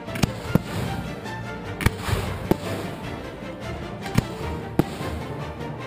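Aerial firework shells bursting with sharp bangs, about six in quick succession, over music with held tones.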